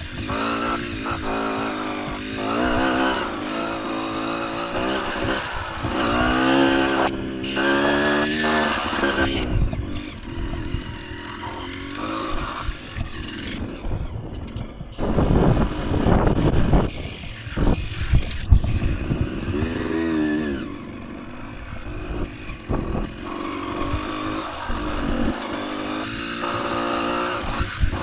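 Dirt bike engine revving up and down as the bike picks its way over rough ground, the pitch rising and falling with each burst of throttle. About halfway through there are a few seconds of rough rushing noise and knocks as the bike goes over bumps.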